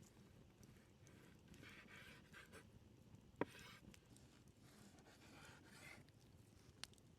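Faint rustling and scraping, with one sharp click about three and a half seconds in and a fainter click near the end.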